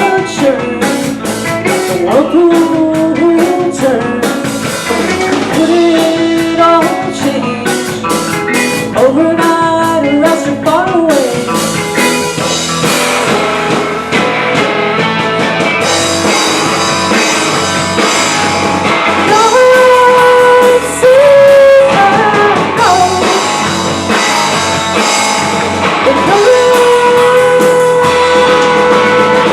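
Rock band playing live: singing over electric guitar and drum kit, filling out with more cymbals about halfway through.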